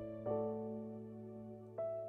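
Piano playing slow, sustained chords that fade gently, with a new chord struck just after the start and another near the end.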